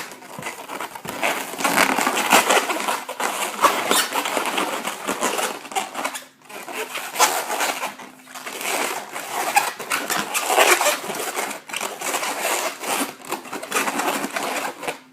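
Latex modelling balloons squeaking and rubbing as they are twisted and locked together, an irregular run of rubbery squeaks and creaks with a brief pause about six seconds in.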